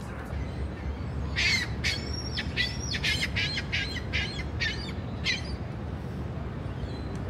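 A bird calling in a quick series of about a dozen short, high calls, starting a little over a second in and ending about a second and a half before the end, over steady low outdoor background noise.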